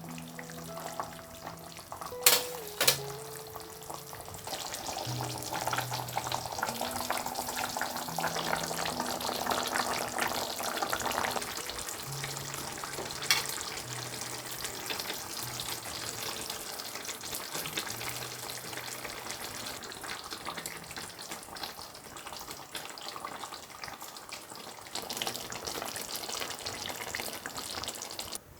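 Food sizzling as it fries in a pan, with soft background music. Two sharp clicks come about two and three seconds in, and another about halfway.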